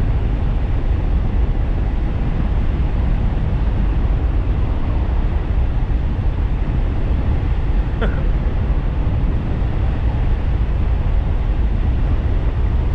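Steady, dense rumble of wind buffeting the microphone as a 1500-watt DIY e-bike rides at speed. A brief sharp chirp cuts through about eight seconds in.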